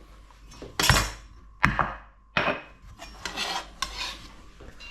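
Kitchen knife and utensils knocking and scraping on a chopping board as sliced ginger is portioned off: three sharp clacks in the first half, then softer rasping scrapes.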